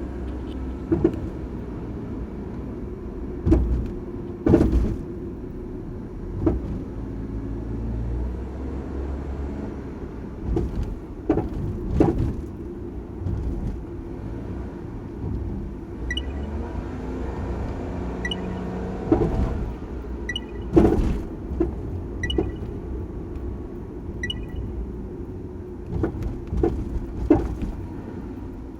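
First-generation Honda N-BOX Custom driving with a steady road rumble, broken by repeated sharp clunks from the suspension at irregular intervals. This is the abnormal suspension noise the owner traced to worn shock absorbers.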